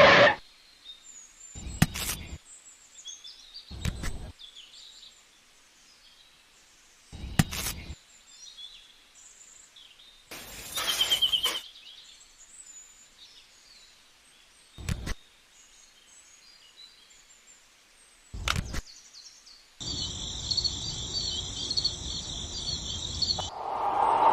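Faint birds chirping over a quiet outdoor background, broken by six short bursts of noise. Near the end, a steady noise with a fast-pulsing high tone runs for about four seconds.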